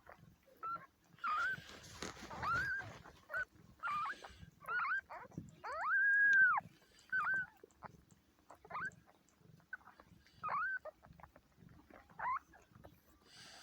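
Newborn kittens mewing: about a dozen thin, high, short cries that rise and fall, one held longer about six seconds in, with soft rustling between them.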